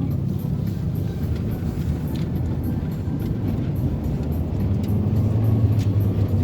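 Inside a moving car: a steady low engine drone with road and tyre noise.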